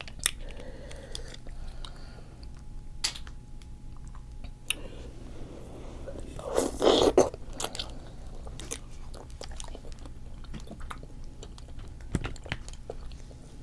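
Close-miked mouth sounds of someone eating seafood: chewing with many small wet clicks, and one louder, longer chewing sound about seven seconds in.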